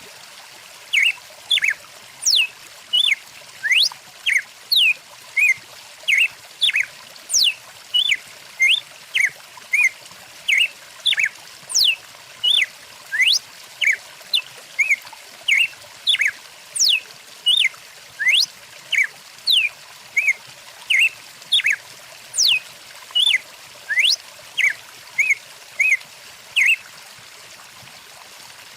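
A songbird calling over and over with short whistled notes, some sliding down and some sweeping up, in quick, even succession, stopping shortly before the end. Under it runs the steady rushing of a stream.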